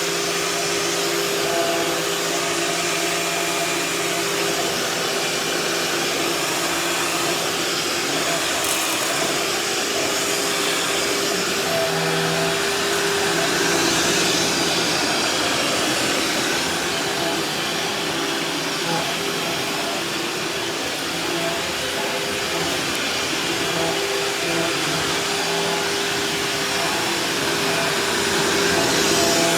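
Shop vacuum running steadily as it vacuums a floor: a constant motor hum over rushing air.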